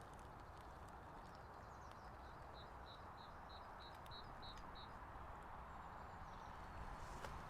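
A steady, faint rush of distant motorway traffic and wind, with a small bird giving a quick run of about eight evenly spaced high notes in the middle.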